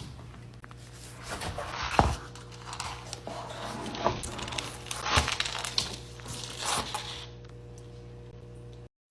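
Scattered rustling and scraping with a few small knocks, the strongest about two and five seconds in, over a steady low hum.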